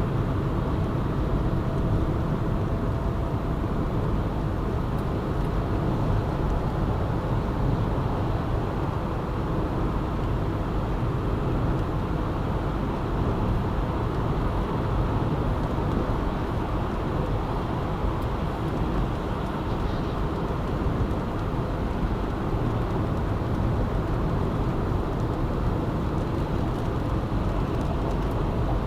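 Steady road noise of a car driving along a city ring road: a constant rumble of tyres and engine with no sudden events.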